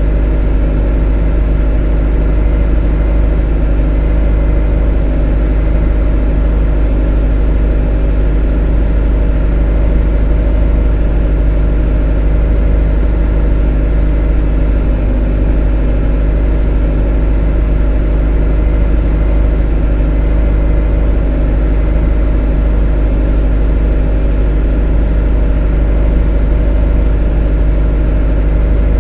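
A motor running steadily at one constant speed: a deep, even hum with many steady overtones that never changes.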